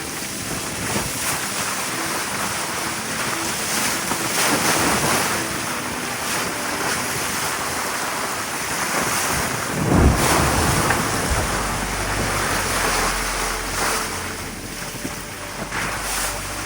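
Wind buffeting the microphone over the wash of waves on a sailboat under way, with a stronger gust about ten seconds in followed by a steady low rumble.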